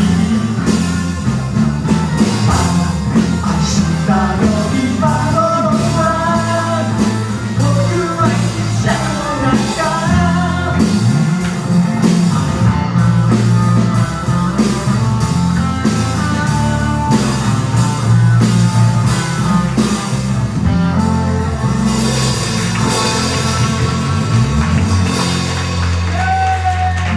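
Live rock band music: drum kit, bass and electric guitar playing steadily, with a wandering lead melody over them.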